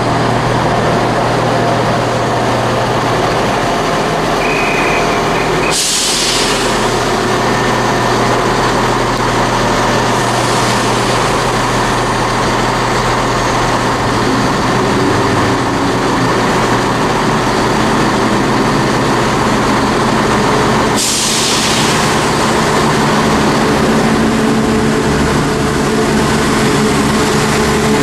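Diesel engines of a Chiltern Railways Class 168 diesel multiple unit running as the train departs, with two sharp hisses of air, about six seconds in and again about twenty-one seconds in.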